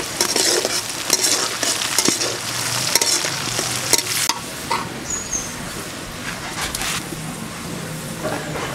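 Chopped onion and garlic sizzling in hot oil in a metal karahi, with a metal spatula scraping and clicking against the pan as it is stirred. The stirring stops about four seconds in, and the steady sizzle carries on.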